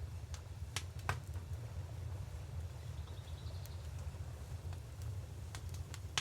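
Wood fire crackling, with a few sharp pops in the first second and again near the end, over a steady low rumble.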